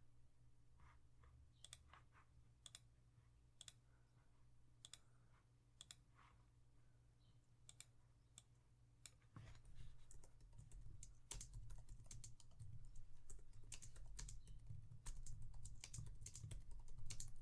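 Typing on a computer keyboard: scattered single keystrokes at first, then steady, faster typing from about halfway.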